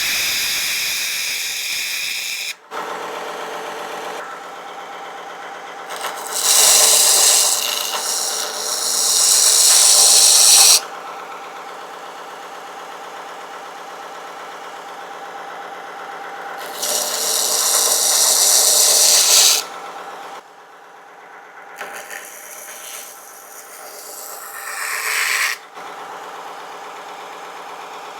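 Mini electric belt sander with a 60-grit belt running with a steady motor hum, while a steel knife tip is pressed against the belt in several passes, each a loud grinding hiss lasting a few seconds, to regrind a broken or bent tip straight.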